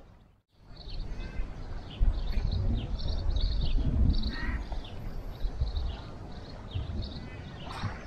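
Small birds chirping over and over in short high calls, with a low rumble underneath that is loudest from about two to six seconds in.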